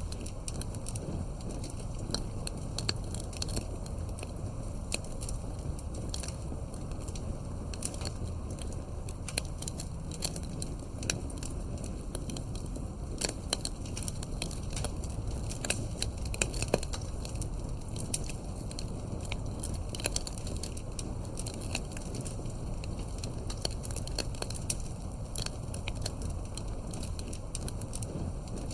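Campfire crackling: irregular snaps and pops over a steady low rumble of the fire.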